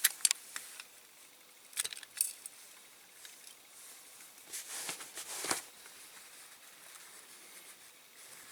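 Light clicks and clinks of small model parts and tools being handled, in three short clusters, the last a brief scraping rustle.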